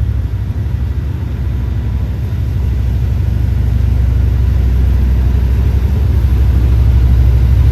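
Amtrak San Joaquin train rolling out with its F59PHI diesel locomotive pushing at the rear, a steady low engine rumble that grows gradually louder.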